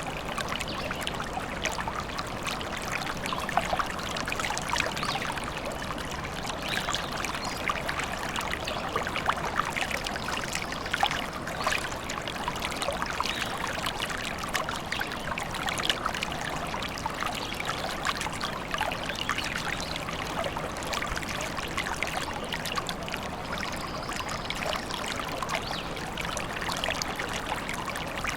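A small stream babbling and trickling steadily over stones, with many small splashes.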